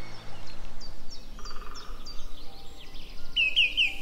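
Woodland birdsong from several birds: quick, high, descending chirps throughout, a short buzzy trill about a second and a half in, and a louder run of repeated downward-slurring notes starting about three seconds in.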